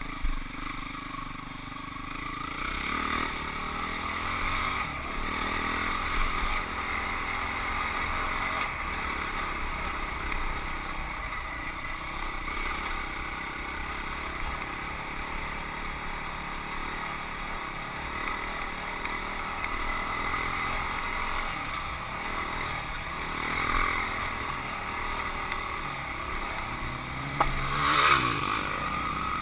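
Husqvarna 449 dirt bike's single-cylinder four-stroke engine running under way, its pitch rising and falling with the throttle, with two louder revs, the second near the end.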